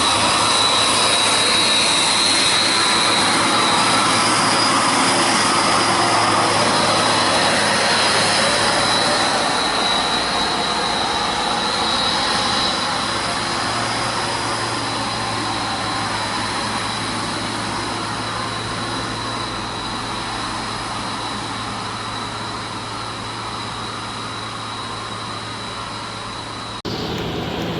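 Steady loud vehicle engine noise with a low hum and a high whine, slowly fading, then cut off abruptly near the end.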